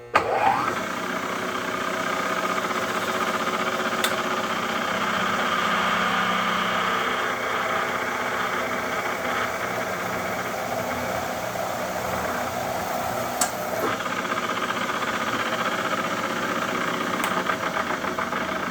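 Supermax milling machine's spindle spinning up, then running steadily while a center drill spots a hole in 416 stainless steel, with a few sharp clicks along the way.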